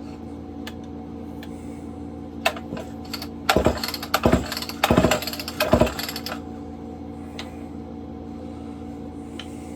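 Handling noises: a few light clicks, then about three seconds of clunks and rattles in the middle as hard objects are moved and knocked together, over a steady room hum.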